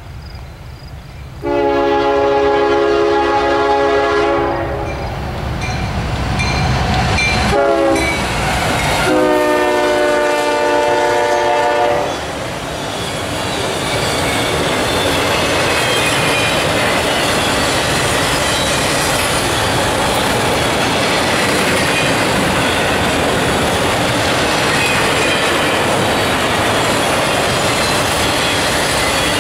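CSX diesel locomotive air horn sounding a long blast, a short blast and another long blast as the freight train approaches. After that comes the steady rush and clatter of autorack car wheels on the rails as the car-carrier train passes close by.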